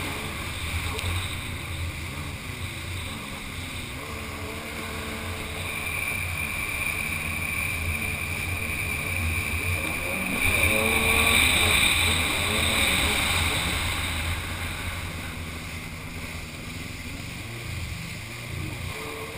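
Kawasaki 800 SX-R stand-up jet ski's two-stroke twin engine running on the water, its pitch rising and falling with the throttle through turns. It gets loudest about ten to thirteen seconds in, then eases off.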